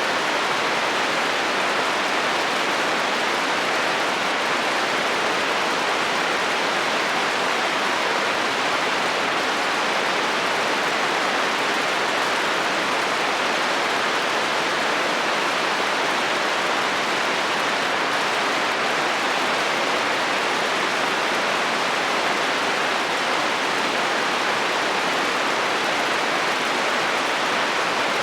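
Heavy rain falling on a metal roof: a steady, unchanging hiss of drops with no thunder.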